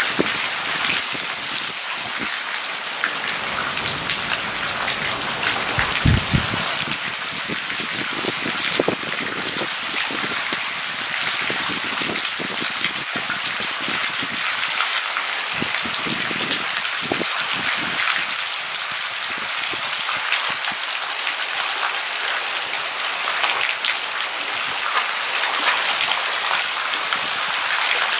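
Rain falling steadily in a thunderstorm, with individual drops striking close by as short ticks. There is a louder knock about six seconds in.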